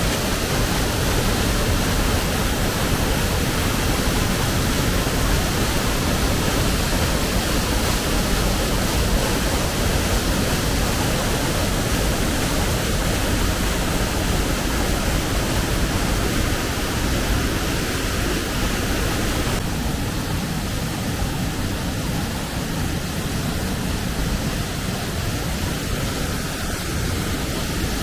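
Waterfall pouring: a loud, steady rush of falling water, a little softer about two-thirds of the way through.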